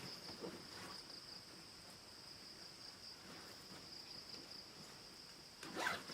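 Steady, high-pitched chirring of insects in the jungle background. A short, louder knock comes near the end.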